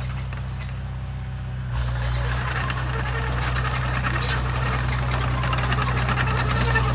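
Heavy diesel engine running steadily, then getting louder and harsher about two seconds in as it is revved or put under load.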